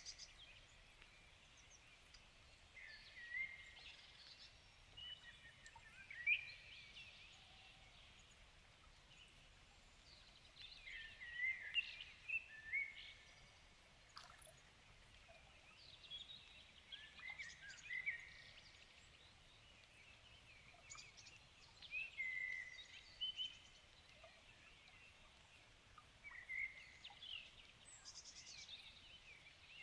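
Songbirds singing in the evening: short phrases of chirps and trills, heard faintly every few seconds.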